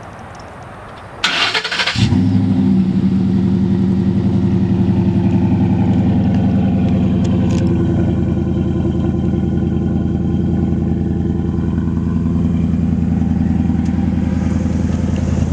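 A vehicle engine starting: a brief burst of cranking about a second in, then the engine catches and runs loudly and steadily at idle.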